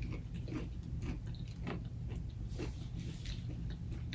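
A person chewing food with soft mouth clicks and smacks, a few a second, over a low steady hum.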